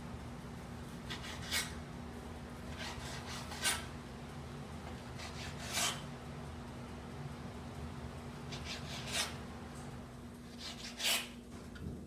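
Chef's knife slicing through raw chicken breast on a cutting board: soft scraping strokes, each ending in a sharp knock of the blade on the board, five times about two seconds apart. A steady low hum runs underneath.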